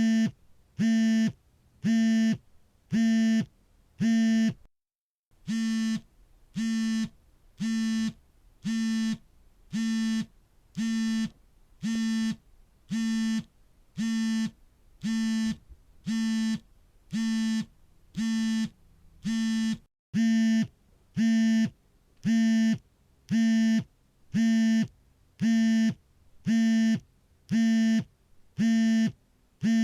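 Smartphone vibrating for an incoming call: a steady run of buzzes, each about half a second long and about one a second, with a short break about five seconds in.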